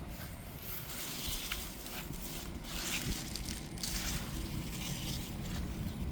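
Rustling and crunching of beet leaves and soil as beets are pulled up by hand, in irregular bursts, over a steady low rumble on the microphone.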